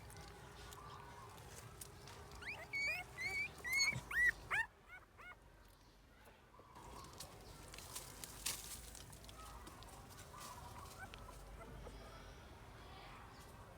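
Puppies whimpering: a quick run of about a dozen short, high-pitched squeaks starting about two seconds in and lasting about three seconds, then only faint background sound.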